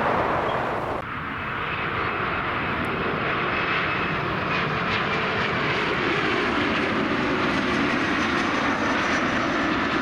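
Jet airliner's engines running as it passes, a steady loud rumble with a faint whine that slowly falls in pitch. The sound changes abruptly about a second in.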